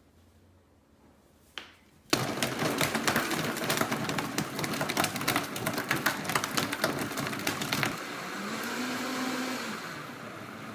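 A motorised household appliance switches on and runs with a loud, rapid rattling for about six seconds, then carries on more quietly with a steadier motor hum that rises and falls in pitch.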